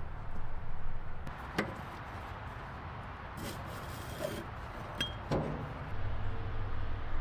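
A few separate light clinks and knocks, four or five in all, over a low steady hum.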